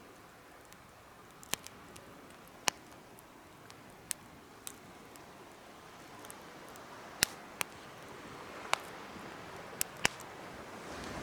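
Wood fire crackling in a homemade fire pit: a steady hiss of burning with about nine sharp pops at irregular intervals. The hiss grows gradually louder.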